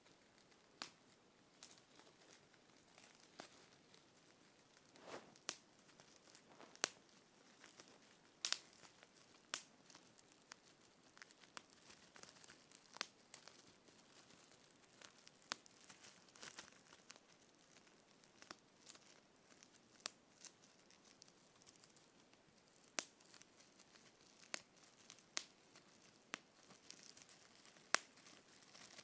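A series of quiet, sharp pops at irregular intervals, one to a few seconds apart and a few much louder than the rest, with faint rustling between them.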